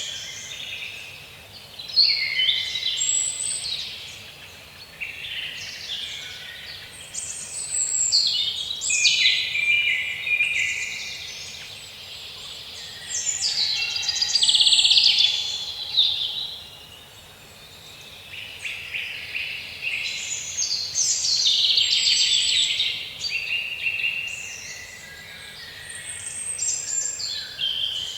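Several songbirds singing at once, a dense chorus of overlapping high chirps and quick phrases that swells and eases in loudness.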